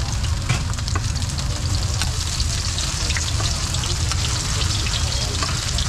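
Garlic chive cakes sizzling as they shallow-fry in oil on a wide flat metal pan. Many small clicks from metal tongs and a spatula against the pan run through it as the cakes are turned and lifted.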